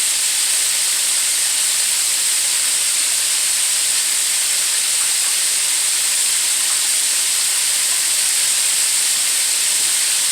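Chicken wings frying in hot oil: a steady, even sizzle.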